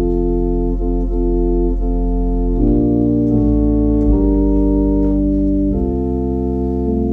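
Organ playing slow, sustained chords over a deep bass, the chords changing every second or two.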